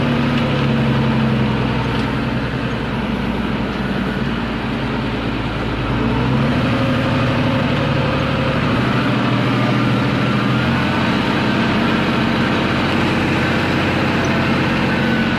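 MTZ-1221 tractor's six-cylinder diesel engine running steadily, its note shifting slightly about six seconds in.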